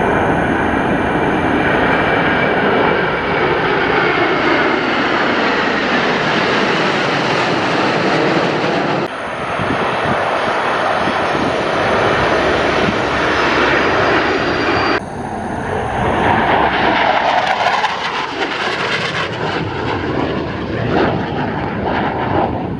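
Military jet aircraft flying past with a loud, steady engine roar and a whine that slowly falls in pitch. The sound changes abruptly twice, about nine and fifteen seconds in.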